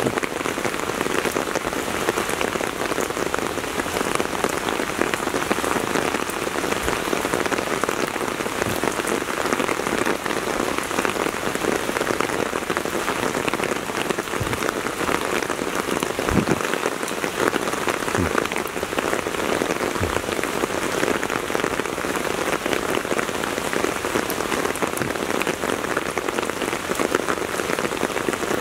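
Heavy rain falling steadily, a dense even hiss of drops hitting the ground and parked vehicles, with a few short dull knocks around the middle.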